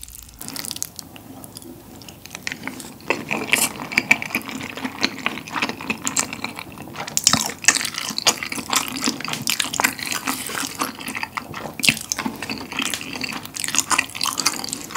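Close-miked wet chewing and smacking of a mouthful of Chinese glass noodles in spicy tteokbokki sauce: a fast, uneven run of small wet clicks that grows busier a few seconds in.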